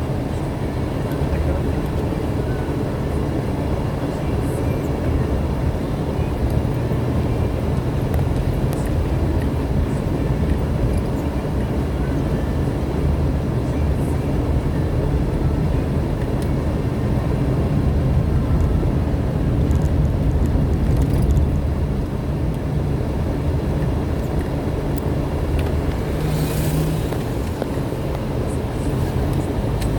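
Car driving along a road, with steady engine and tyre noise and a short burst of hiss near the end.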